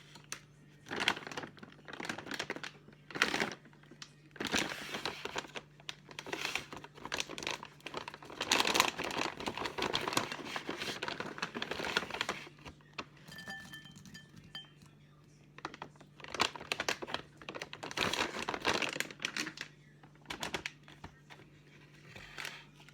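Plastic packaging crinkling and rustling in irregular bursts, as a bag of dried cranberries is handled and emptied.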